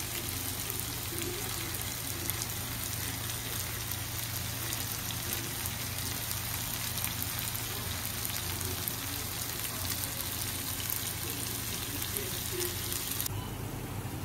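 Chicken in oil sizzling on a hot tawa, a steady crackling hiss over a low hum. The sizzle cuts off about a second before the end, leaving only the hum.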